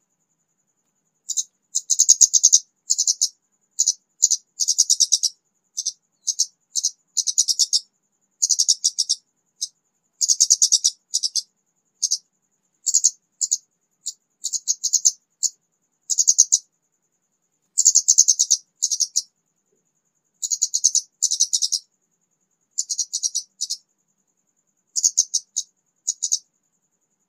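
Orange-headed thrush (kemade) singing in short, high, rapid twittering phrases with brief gaps between them. It is a raw, untamed bird that has just begun to sing.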